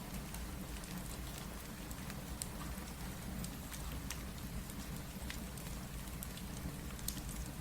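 Steady rain mixed with a wood fireplace: an even rain hiss over a low rumble, with scattered sharp crackles and drop ticks throughout.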